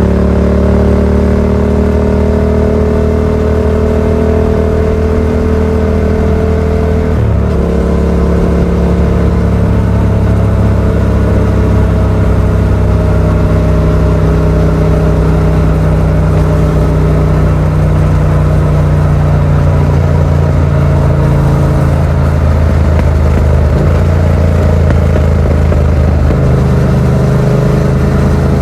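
Yamaha MT-07's 689 cc parallel-twin engine running through a Yoshimura R77 exhaust with the dB killer fitted, heard from the rider's position while riding. About seven seconds in, the engine note breaks and drops in pitch as the rider shifts up. After that it holds a steady cruising note with slow small changes in pitch.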